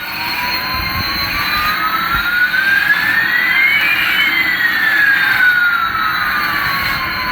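Jet aircraft engine noise: a steady rush with one whine rising in pitch while another falls, the two crossing about halfway, as in a jet passing by.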